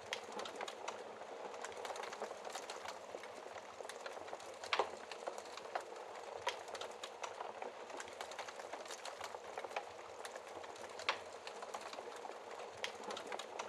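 Wood fire in a fireplace crackling steadily, with a continual patter of small snaps and a few louder pops.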